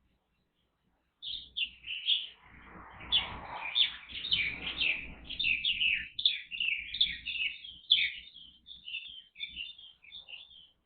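Birds chirping rapidly and without a break, starting about a second in, in quick high notes. These are light-vented bulbuls and Japanese white-eyes feeding at aloe flowers.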